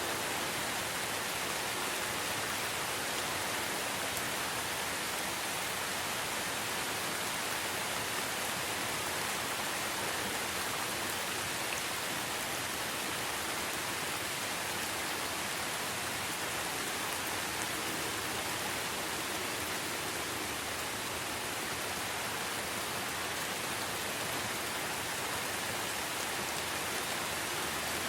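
Steady rainfall, an even hiss of many drops with no separate patters or changes in level.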